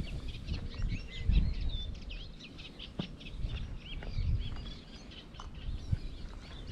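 Several small birds singing and chirping, with quick overlapping calls and whistles throughout. Gusts of wind rumble unevenly on the microphone.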